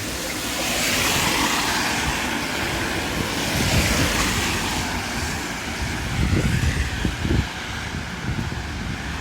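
A car passing on a wet street: its tyre hiss swells about a second in, holds, then fades away. Wind rumbles on the microphone underneath.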